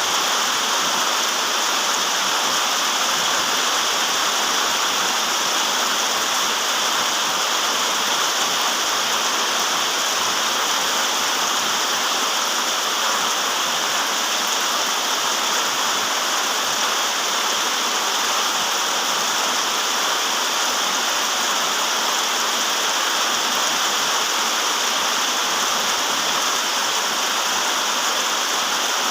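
Steady rain falling: an even hiss, strongest in the upper range, with no single drops or gusts standing out.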